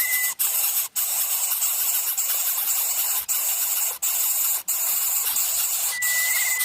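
Steady high-pitched hiss that cuts out for an instant several times, with a faint short whistled tone near the start and again near the end.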